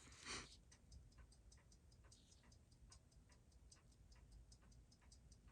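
Faint, even ticking of a Seiko 6139 automatic chronograph movement running at about six beats a second, during a quick check that its chronograph clutch is holding. A slightly louder click comes just after the start.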